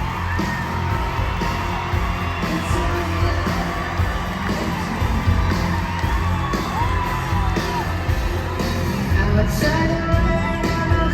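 Live rock band playing over a concert sound system, with audience members whooping and yelling over the music.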